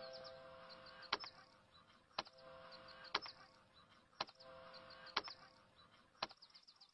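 Faint sharp clicks, about one a second and six in all, over faint held tones.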